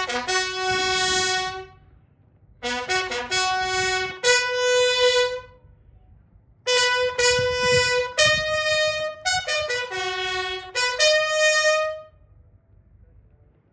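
Military bugle call at a wreath-laying ceremony: held notes on a few fixed pitches, played in three phrases with short pauses between them.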